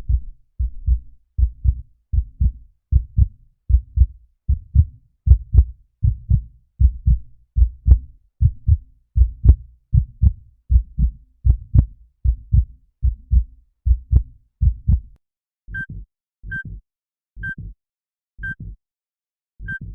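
Heartbeat sound effect: fast, even double thumps, about two beats a second. About fifteen seconds in it changes to a slower heartbeat, about one beat a second, with a short high beep on each beat.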